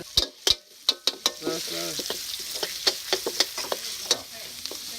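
Food sizzling as it is stir-fried in a hot pan, with a utensil clinking and scraping against the pan. A few sharp clanks come first, and the steady sizzle rises about a second and a half in.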